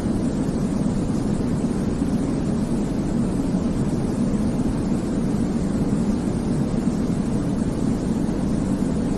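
Steady sleep-aid white noise for babies, a constant even hiss weighted toward the low end so that it sounds deep, like a soft rumble. It does not change.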